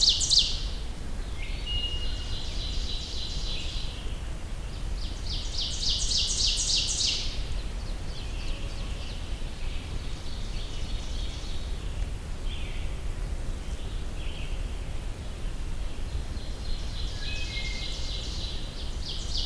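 Black-throated green warbler singing its buzzy song phrase, once at the start, again about six seconds in and again near the end. Fainter birdsong comes in between, over a steady low rumble of outdoor noise.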